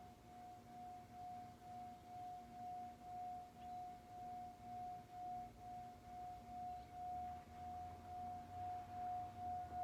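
Singing bowl sounding one steady, pure tone that swells and fades about twice a second, with a fainter lower tone beneath, gradually growing louder.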